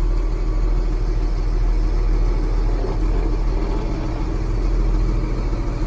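Steady low drone of a vehicle engine running at an even speed.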